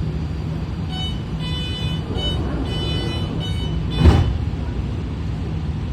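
BART train car running with a steady low rumble and hum. For a few seconds it carries a broken series of high beeping tones. About four seconds in there is one sharp thump.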